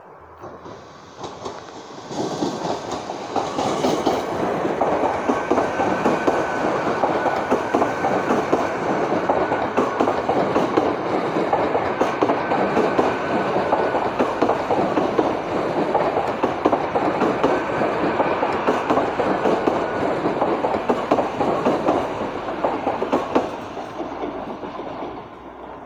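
Great Western Railway Intercity Express Train, a bi-mode unit running on its diesel engines, passing close by: a dense, steady rumble of wheels on rails with a faint steady whine. It builds about two seconds in and fades away near the end.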